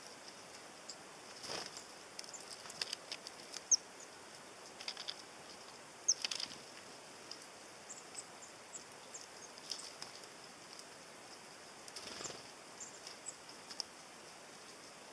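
A flock of tits at a sunflower-seed feeder: short, high call notes scattered throughout, mixed with sharp taps and clicks, and a few brief rustling bursts.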